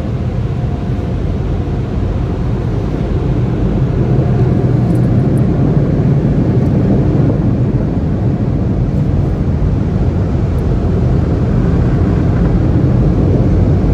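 Automatic car wash machinery running, heard from inside the car's cabin as a loud, steady roar that grows louder about four seconds in.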